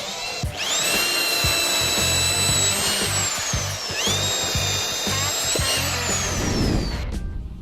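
INGCO ID11008 1100 W corded impact drill run with no load twice: the motor whine rises as it spins up, holds steady for a second or two and falls as it winds down, then spins up again and winds down near the end. Background music with a steady beat plays underneath.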